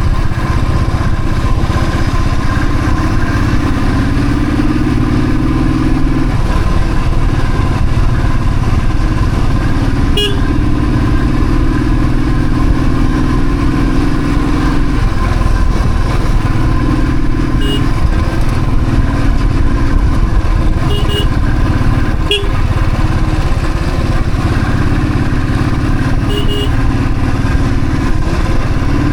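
Royal Enfield Thunderbird's single-cylinder engine running under way, its note rising and falling with the throttle, under a heavy rumble of wind. Short horn beeps sound several times.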